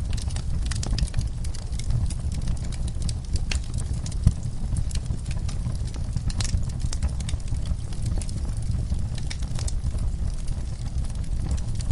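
Wood fire crackling with irregular small pops over a low steady rumble, and one sharper pop about four seconds in.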